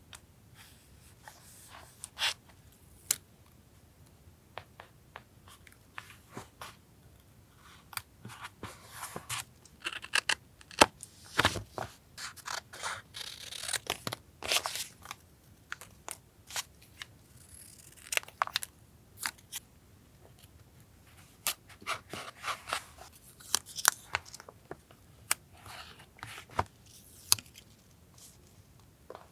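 Paper being cut with scissors and handled: irregular sharp snips and short papery rustles, busiest through the middle.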